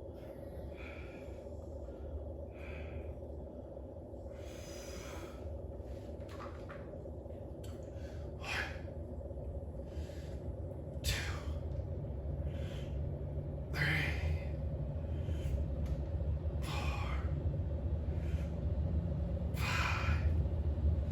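A man breathing hard under exertion during a workout set: sharp, forceful exhales about every one and a half seconds, growing louder toward the end, over a steady low hum.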